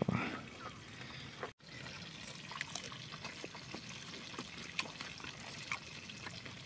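A man chewing crispy fried lambari, with small crunches and clicks over a quiet, steady trickle of water in the background.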